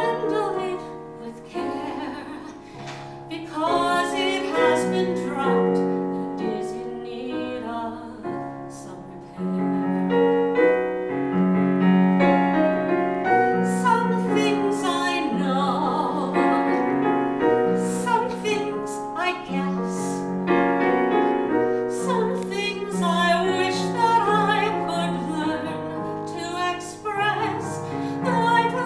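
A woman singing a song with vibrato, accompanied by piano sounds from an electronic keyboard. The music drops quieter about eight seconds in and comes back fuller a second later.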